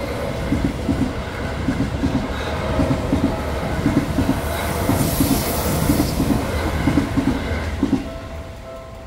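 Electric commuter train passing over a level crossing at close range, its wheels clacking over the rail joints in regular pairs. The noise falls away about eight seconds in as the last car clears, leaving the crossing's warning bell ringing.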